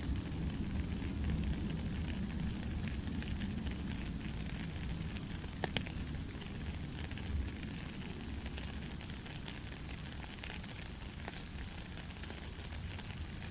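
Steady white-noise sleep sound: an even hiss over a low rumble, with faint scattered crackles and one sharper click about six seconds in.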